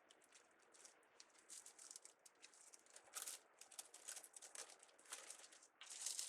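Faint rustling and light clicking of craft materials being handled at close range, a scatter of small ticks and crinkles that grows busier after about a second and a half.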